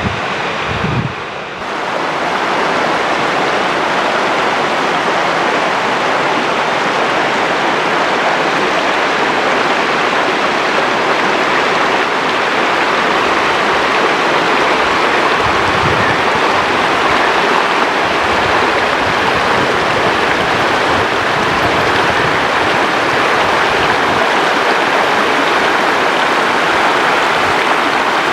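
Fast-flowing water of the Kiewa River West Branch rushing steadily, with no tones or rhythm in it. The sound settles about two seconds in and stays level.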